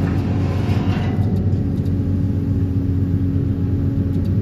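DPD350T excavator-mounted vibro hammer vibrating a steel sheet pile into the ground with the excavator engine under load, a steady low drone. The pile is going in hard, which the operator sums up as 'definitely won't go'.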